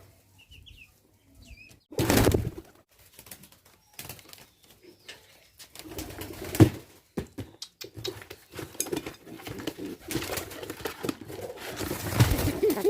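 A pigeon cooing, with bursts of rustling and flapping; the loudest burst comes about two seconds in, and a sharp knock falls about midway.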